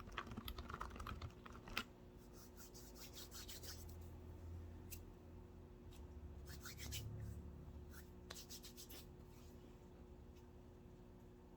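Computer keyboard being typed on softly: a quick run of key clicks, then scattered short clusters of taps that thin out, with a faint low rubbing sound in the middle.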